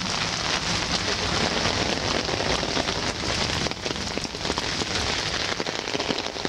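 Heavy rain pouring down, a dense steady hiss full of separate drop hits striking close to the microphone, as on an umbrella held overhead.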